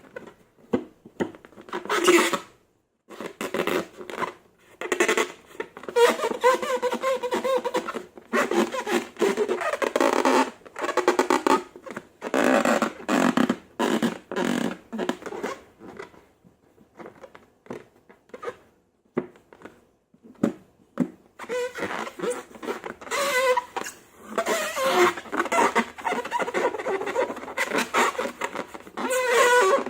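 Slime being squeezed and worked by hand, a string of irregular wet squelching and squeaking noises, some with a short pitched squeak, broken by brief pauses.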